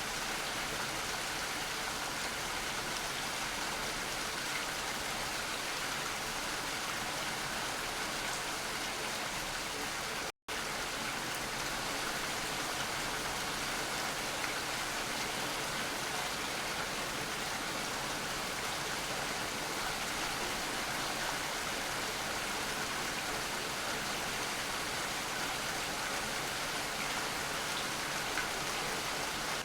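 Steady rain falling, an even hiss of drops. The sound cuts out for an instant about ten seconds in, then carries on unchanged.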